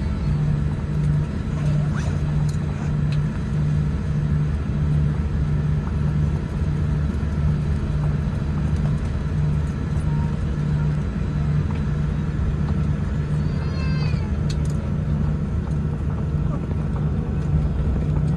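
Steady low cabin drone inside a Boeing 787-10 taxiing after landing, with a low hum that pulses about once a second. A brief faint high warbling sound comes about 14 seconds in.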